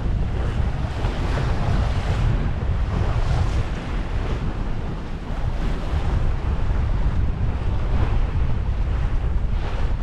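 Wind buffeting the microphone over the wash of the sea on a sailing yacht under way, a steady rushing with uneven gusts.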